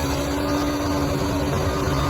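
Bulldozer's diesel engine running steadily: a low rumble with an even hum over it.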